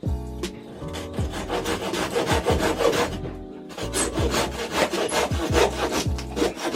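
Rasping, scraping noise of wood being worked, in two stretches of a couple of seconds each, over background music with a steady kick drum.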